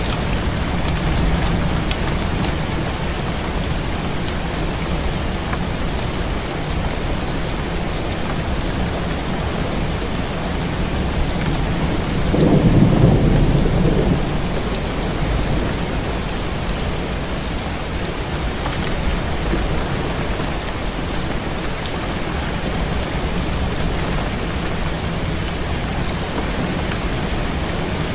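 Heavy rain falling steadily, with a low rumble of thunder lasting about two seconds near the middle.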